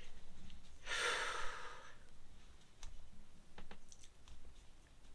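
A person lets out one long, breathy sigh about a second in, with a few faint clicks around it.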